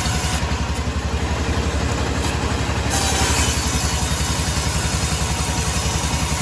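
Engine driving a sawmill, running steadily with a fast, even low throb. Its higher hiss drops away for a couple of seconds about half a second in, then returns.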